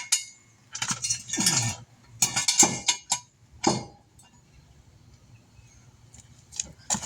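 Steel jack stand clanking and scraping as it is set in place under a vehicle. There is a run of loud ringing metal clanks in the first four seconds, then a few faint clicks near the end.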